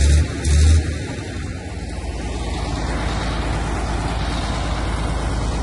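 Crawler tractor's diesel engine running, with two brief loud bursts within the first second, then a steady, rumbling run.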